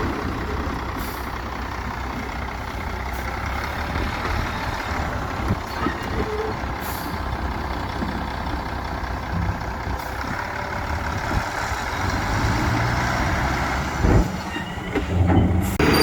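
Heavy diesel construction machinery running steadily, with a short, sharp knock about fourteen seconds in.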